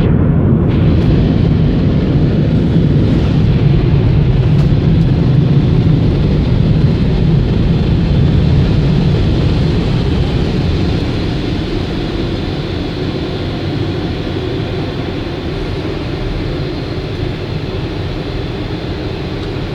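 Automatic car wash machinery running: a loud, steady rushing noise that slowly fades over the second half.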